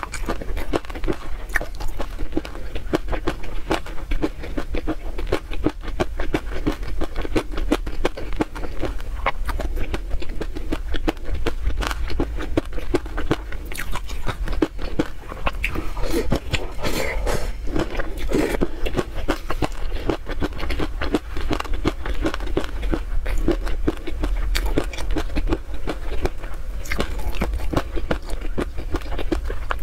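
Close-miked eating of chili peanut sauce: a dense, continuous run of chewing, crunching peanut bits and wet mouth clicks, with a silicone spoon now and then scraping the plate.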